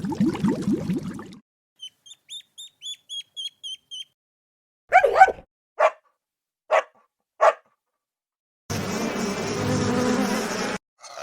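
A run of different animal calls. A low cattle moo trails off in the first second, then about ten quick high chirps, then four short sharp bark-like calls, then one harsh call lasting about two seconds.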